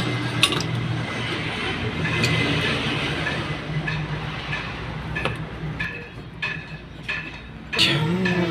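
A steady mechanical hum, with a run of sharp metallic ticks in the second half, a little under two a second.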